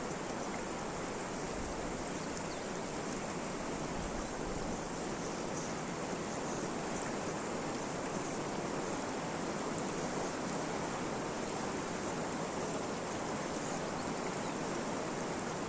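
Steady rain: an even, unbroken rushing hiss with no pauses or changes.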